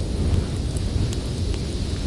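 Storm wind with a steady deep rumble, with a few faint crackles from a wood fire.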